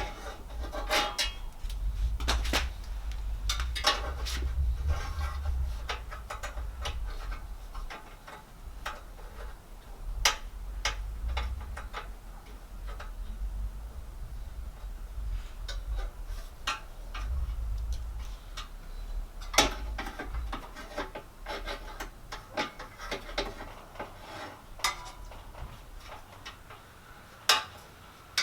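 Irregular metal clicks, clinks and scrapes of pliers working exhaust springs onto a side-by-side's exhaust, with low rumbling handling noise.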